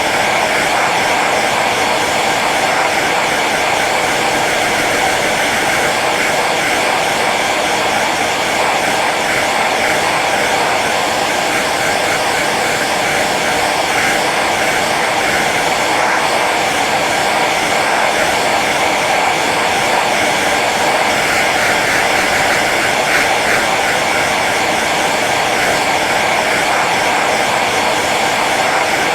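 Hair dryer running steadily on its low setting: an even blowing rush with a faint motor whine.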